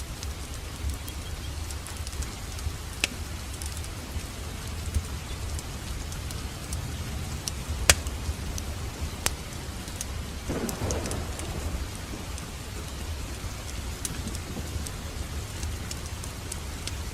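Wood fire crackling in a fireplace: a steady low rumble of flames with scattered sharp pops and snaps, the loudest about eight seconds in, and a brief flurry of denser crackling a little after ten seconds.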